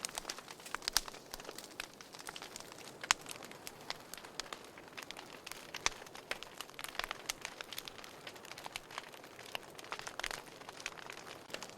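Wood fire crackling in a fireplace: a steady soft hiss with irregular sharp pops and snaps, one louder pop about three seconds in.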